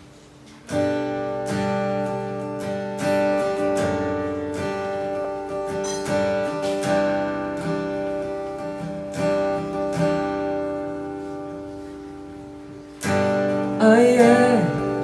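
Acoustic guitar playing the introduction of a song, chords ringing from under a second in and slowly fading, then a fresh strum at about 13 s. A voice starts singing near the end.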